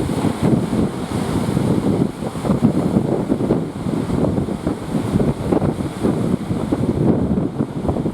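Strong wind buffeting the microphone, a gusty, uneven rumble, over the wash of sea waves.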